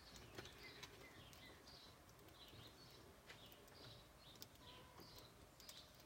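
Faint bird chirps repeating roughly once or twice a second, with a few light ticks, over near silence.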